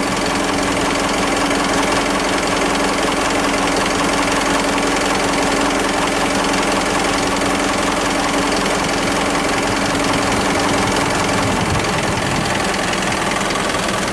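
Isuzu Elf's 4JJ1 3.0-litre turbo-diesel idling steadily with a diesel clatter; a steady hum in the sound drops away near the end.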